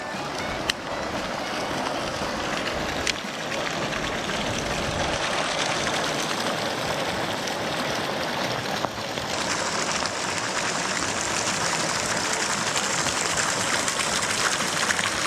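Steady rush of moving water, with two short sharp clicks in the first few seconds.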